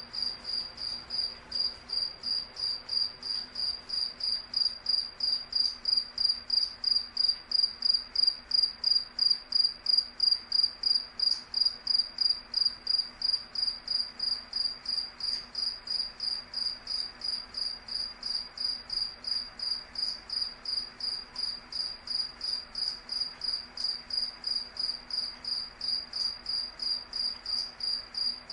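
A cricket chirping steadily: an even, high-pitched chirp repeated about two and a half times a second, slightly louder in the middle stretch.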